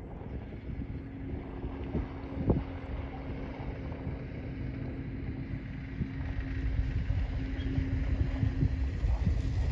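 Light single-engine piston airplane running with a steady drone, growing louder toward the end as it comes nearer, while wind buffets the microphone.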